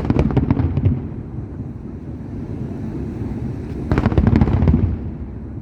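Fireworks bursting in two volleys of rapid bangs, one at the start lasting about a second and another about four seconds in, over a steady low background rumble.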